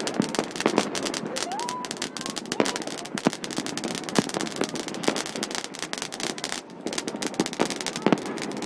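Fireworks and firecrackers going off close by: a dense, irregular string of bangs and crackles. A short rising whistle comes about one and a half seconds in.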